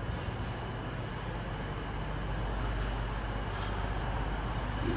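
Steady background noise of a railway station platform, with a constant low engine-like hum underneath.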